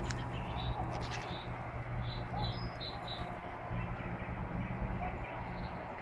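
Small songbird chirping, with a quick run of four short high notes about two seconds in and a few single chirps around it, over a steady low background rumble.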